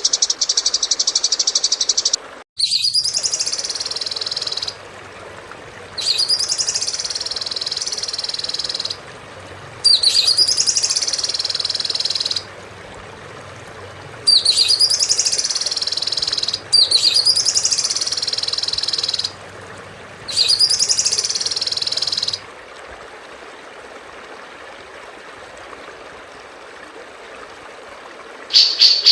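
Recorded songbird calls used as a bird-training tutor track: a fast high trill that cuts off abruptly, then six repeated chattering phrases, each two to three seconds long, rising then falling in pitch, with short pauses between. After a quieter stretch, a new fast trill begins near the end.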